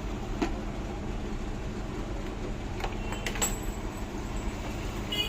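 Steady low workshop background noise with a few faint clicks and taps from engine parts being fitted by hand.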